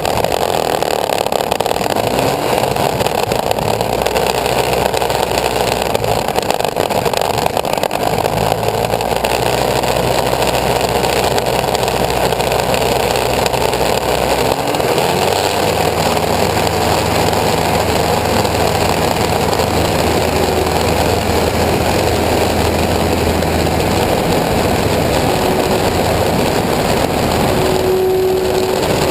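Engine of a homemade aircraft running steadily, its pitch shifting about eight and fifteen seconds in.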